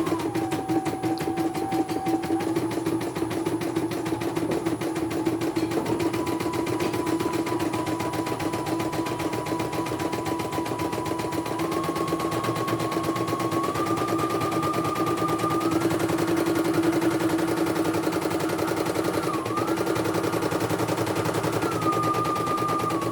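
Computerized embroidery machine stitching at speed: a rapid, even needle clatter over a steady motor hum, with a whine that steps up and down in pitch several times as the motor speed changes. It is a test run of the machine after servicing.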